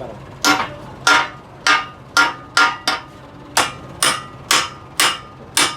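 Hammer striking steel, about eleven blows roughly two a second at an uneven pace, each with a short metallic ring.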